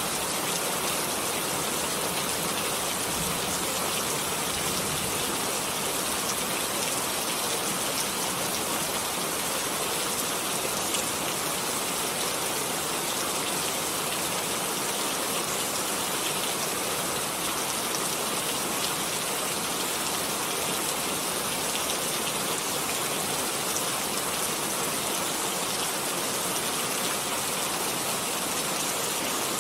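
Steady rain falling, an even hiss of drops with faint scattered ticks of individual drops hitting a surface.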